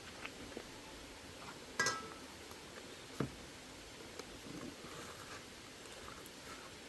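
Sparse clinks and knocks of kitchen utensils against pots and dishes: one sharp clink with a short metallic ring about two seconds in, and a duller knock about a second later.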